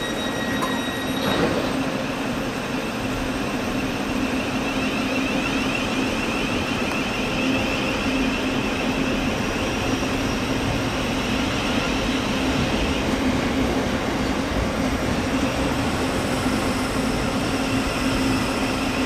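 Electric multiple-unit train running at a station platform: a steady rumble of wheels on rail with a constant low hum and a wavering whine. About a second in, a high steady tone stops with a brief click.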